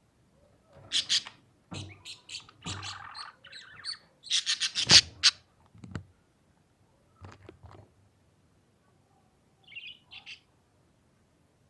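Budgerigar chirping in several short bursts of quick high chirps, loudest about five seconds in, with quiet gaps between the bursts.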